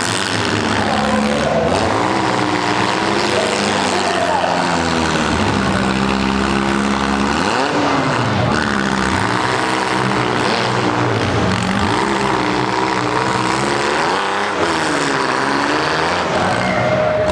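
Several small demolition derby cars' engines revving, their pitch repeatedly rising and falling as the drivers get on and off the throttle.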